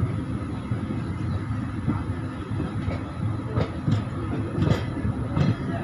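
Express train's passenger coaches running at speed, heard right beside the coach: a steady rumble of wheels on the track, with sharp wheel clacks over rail joints several times in the second half.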